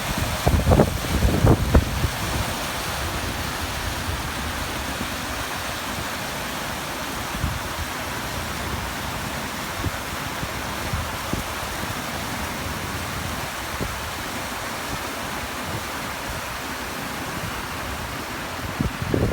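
Waterfall: a steady, even rush of falling water. Low gusts of wind on the microphone buffet in the first two seconds and again near the end.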